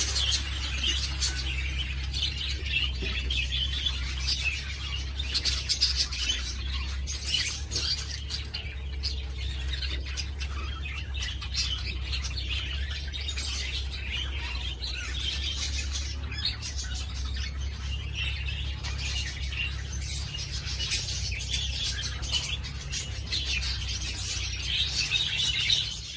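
Flock of budgerigars chattering continuously, a dense mix of rapid chirps and warbles, over a steady low hum.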